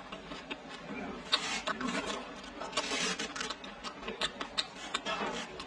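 Close-up eating sounds: chewing and mouth smacking on roast pork, with irregular sharp clicks.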